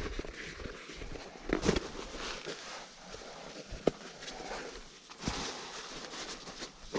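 Rustling and shuffling of camping gear being handled, with a few short knocks and thumps.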